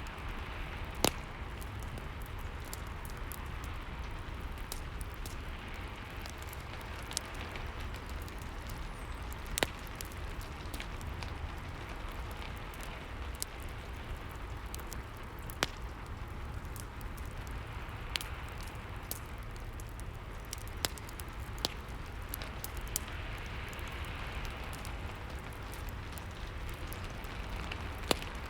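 Steady rain with a crackling fireplace: an even hiss of rain under a low rumble, with sharp single pops of the fire every few seconds.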